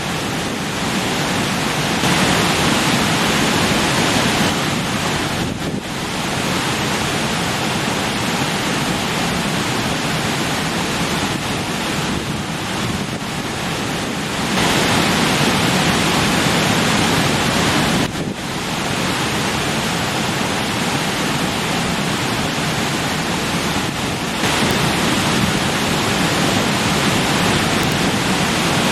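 Rushing stream splashing over rocks, a steady rush of water whose loudness shifts slightly a few times, with two brief dips.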